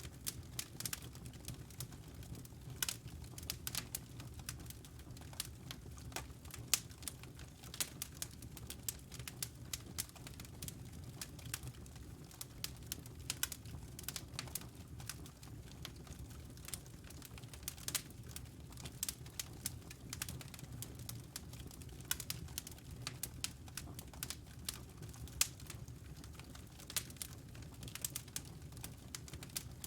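Wood fire in a fireplace crackling: irregular snaps and sharp pops, a few louder than the rest, over a steady low rumble.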